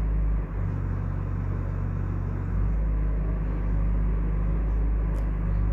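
Steady low hum and rumble.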